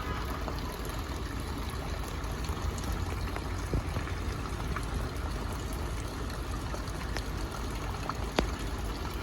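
Water trickling and running steadily, with a few sharp clicks scattered through it.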